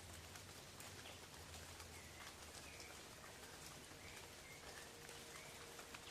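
Soft, steady rain falling on forest leaves, with a bird giving several short chirps.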